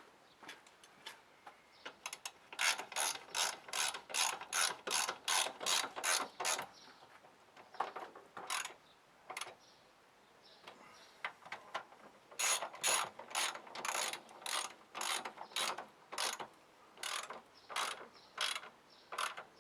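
Hand ratchet wrench clicking in quick even strokes, about three a second, in two long runs with a pause and a few single clicks between: a fastener being wound in or out during a car service.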